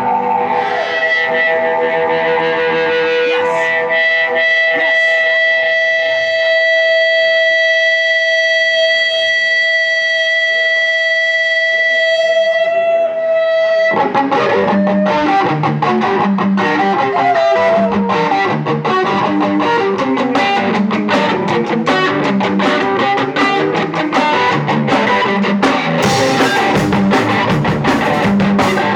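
Live punk rock: a distorted electric guitar holds one droning note for about fourteen seconds, then the full band comes in with drums, bass and guitar, loud and fast.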